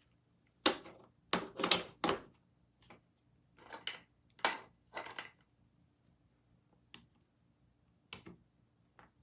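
A scattered series of short knocks, clicks and clatters as craft materials and tools are handled and set down on a work table, about ten in all, busiest in the first half.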